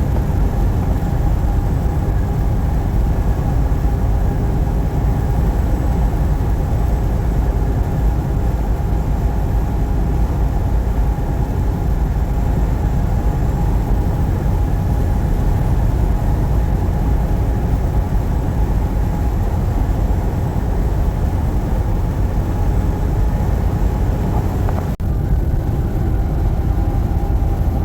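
Steady engine and road noise inside a semi-truck's cab while driving, with a steady hum running through it. There is a momentary break in the sound near the end.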